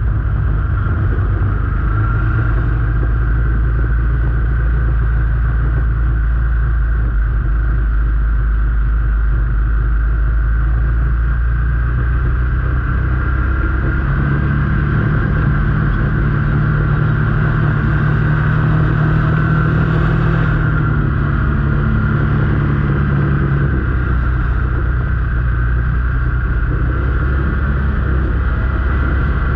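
A vehicle engine running steadily while under way; its pitch rises somewhat about halfway through and drops back again near the end.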